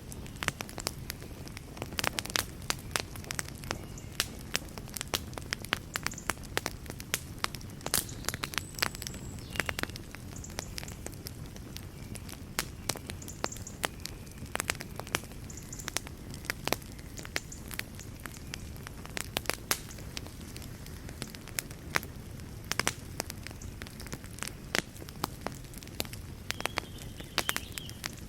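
Wood fire burning in a fireplace, crackling and popping irregularly over a low, steady rumble.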